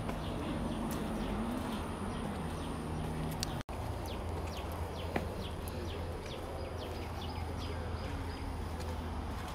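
Small birds chirping, many short quick downward chirps over a steady low rumble. The sound drops out for an instant a little over a third of the way in.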